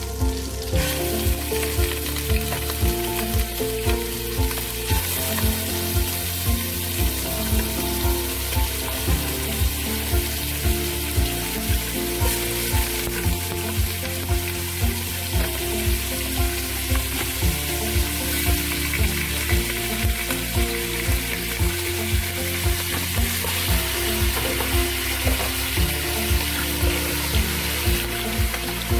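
Chicken pieces frying in hot oil in a pot, giving a steady sizzle. Background music with a steady beat plays over it.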